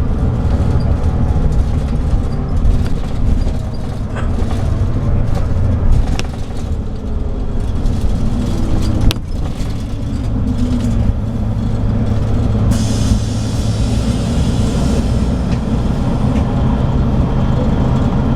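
Scania DSC9 nine-litre straight-six diesel of a Scania K340IB coach running steadily under way. There is a sharp knock about nine seconds in, and a hiss joins about thirteen seconds in.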